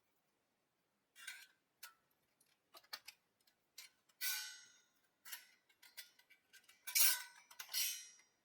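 Metal parts of a NEHAN fire pit clinking and clanking against each other as it is assembled. Light clicks are scattered between several louder, briefly ringing clanks; the loudest come about four and seven seconds in.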